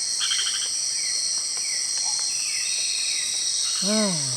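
Night-time rainforest insect chorus: a steady high-pitched drone of crickets and other insects, with short falling chirps repeating about once or twice a second. A pulsed call sounds just after the start, and a brief call that rises then falls in pitch comes near the end.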